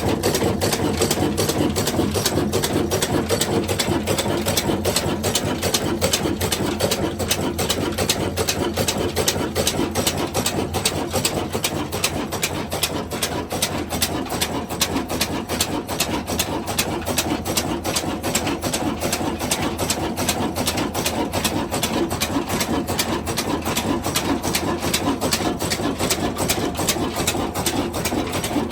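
Diesel engine running steadily with a fast, even knocking clatter.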